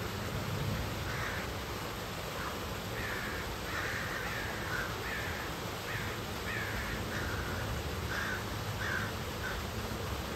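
A bird calling repeatedly: about a dozen short calls, each dropping slightly in pitch, starting about a second in, bunched closer together in the middle, and thinning out near the end.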